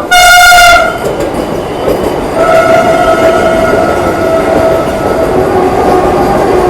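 Indian Railways train running with a heavy rumble; a short, very loud horn blast right at the start, then a long steady horn tone from about two and a half seconds in, which drops to a lower pitch around five and a half seconds.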